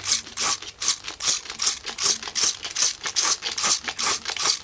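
Rhythmic scrubbing inside a Husqvarna 45 chainsaw's cylinder head wet with acetone, about two to three strokes a second, loosening built-up dirt and carbon.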